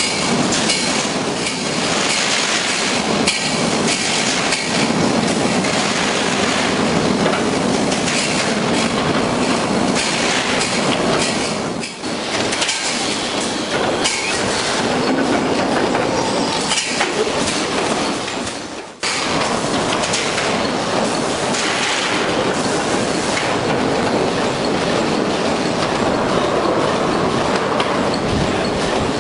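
Full-auto wire mesh welding machine with mesh flipper running: a continuous dense mechanical clatter of many small clicks and knocks, dipping briefly twice.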